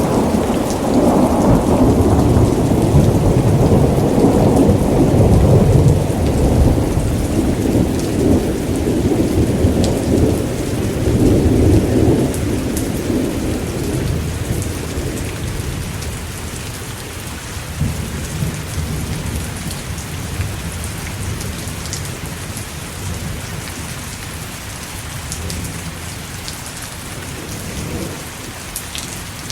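Thunderstorm: a long roll of thunder rumbles loudly for about twelve seconds and then fades away, leaving steady heavy rain with scattered drop impacts.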